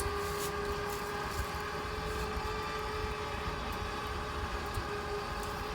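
Badland 12,000 lb electric winch running under heavy load, giving a steady, even whine at one pitch over a low rumble. It is on a single-line pull, dragging an 8,600-pound diesel truck that has its parking brake set.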